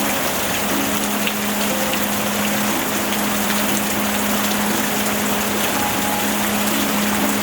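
Steady rain, an even hiss with no letup, over a low steady tone.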